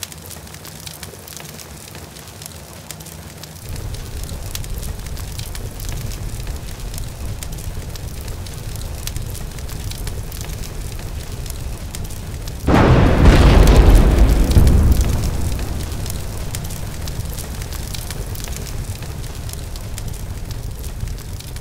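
Sound effect of a crackling bonfire that grows louder about four seconds in. Near the middle, a sudden explosion with a deep boom breaks out and dies away over a few seconds while the fire crackle goes on.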